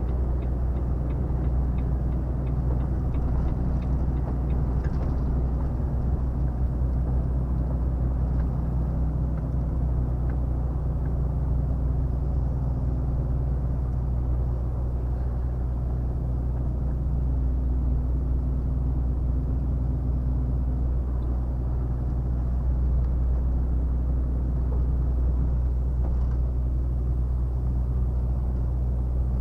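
Volvo FH 460 truck's 13-litre straight-six diesel engine running steadily at cruise, a constant low drone mixed with road rumble.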